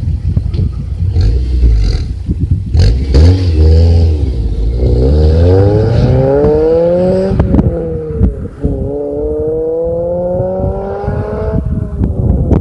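Honda Civic Type R FD2's K20A four-cylinder through a Kakimoto N1 full-mega exhaust, pulling hard under acceleration. After a few seconds of low rumble the exhaust note climbs in pitch, drops at an upshift about seven seconds in, climbs again, and drops at another shift near the end.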